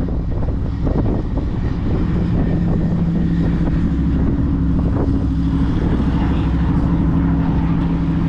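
A vehicle engine running at a steady speed, a constant low drone that settles and holds about two seconds in.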